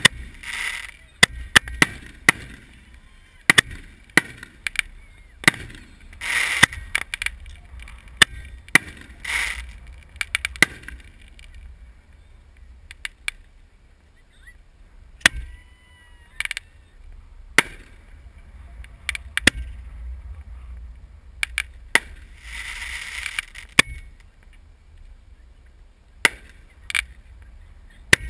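Fireworks going off: sharp bangs at uneven intervals, some in quick clusters, with a few longer hissing bursts lasting about a second.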